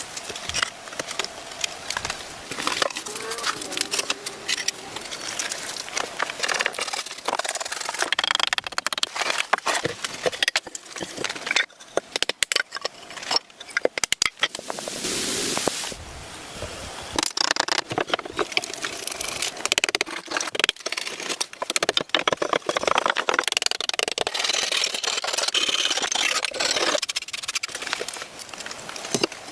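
Wood being worked by hand: irregular knocks, cracks and rasping scrapes of tools on wood.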